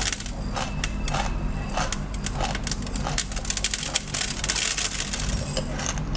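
A person chewing a mouthful of crunchy granular food, close-miked, with a dense crackle of small sharp crunches and a steady chewing rhythm of a little under two bites a second.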